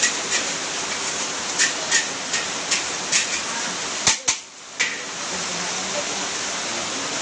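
Steady rain falling, with scattered sharp ticks of drops striking a hard surface. The rain noise dips briefly a little past the middle.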